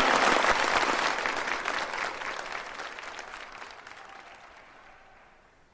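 Applause from a group of people, fading out steadily over about five seconds to near silence.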